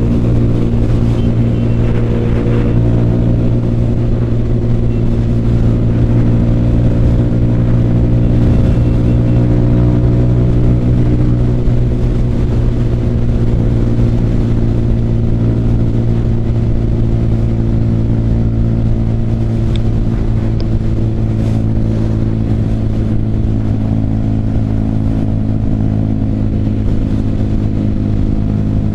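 Motorcycle engine running at a steady cruising speed, heard from the rider's own bike as an even, unchanging hum, with a faint rush of road noise over it.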